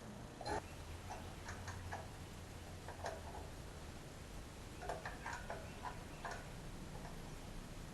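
Light metallic clicks and clinks of hand tools and bolts, irregular and coming in two short flurries, as a fan spacer is bolted onto a race car's water pump. A faint steady low hum runs underneath.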